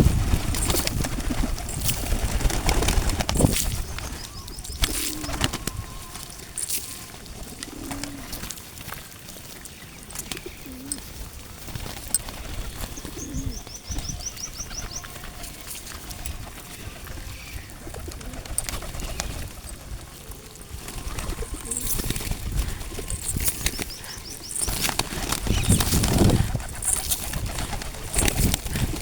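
Pigeons cooing in short low calls, with wing flaps and scattered sharp clicks. Louder stretches of flapping come near the start and again near the end, and a small bird gives a quick high trill about halfway through.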